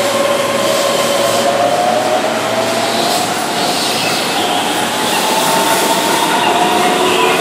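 Keihan 10000 series electric commuter train pulling out along the platform, with a steady running rumble and a pitched whine that rises twice as it gathers speed.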